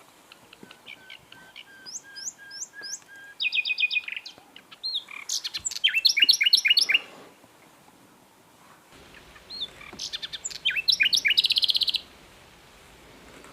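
Common nightingale singing: three separate phrases of varied whistled notes and fast rattling trills, with pauses between them. The phrase about halfway through is the loudest.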